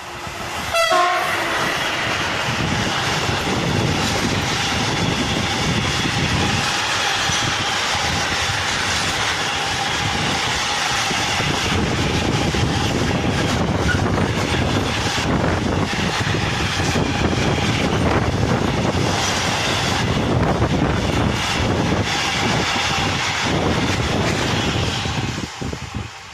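Freight train of steel-slab wagons hauled by two SNCF BB 27000 electric locomotives passing close at speed: the sound rises sharply in the first second as the locomotives arrive, then a long, loud rumble and rapid clatter of wagon wheels over the rails. A steady high ringing tone sits over the noise through roughly the first half.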